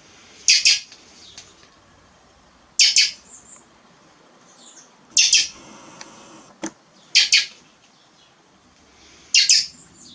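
A young thrush fledgling gives hungry begging calls. They come as five quick, high double chirps, about one every two seconds.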